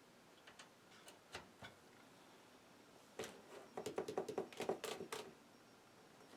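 A few light, isolated clicks, then about two seconds of rapid clicking at roughly seven clicks a second.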